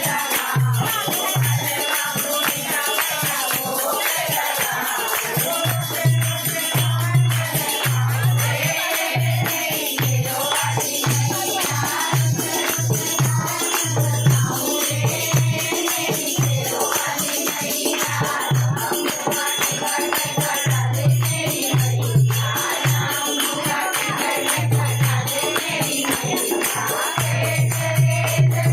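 A group singing a Hindu devotional bhajan together, over a steady drum beat and jingling percussion.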